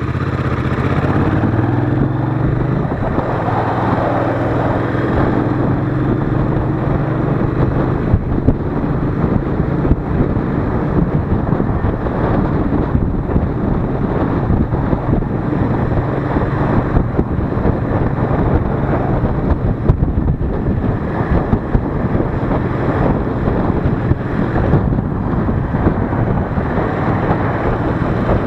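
Royal Enfield Interceptor 650's parallel-twin engine and exhaust pulling harder in the first few seconds as the bike speeds up, then running steadily at speed, with wind rushing over the microphone.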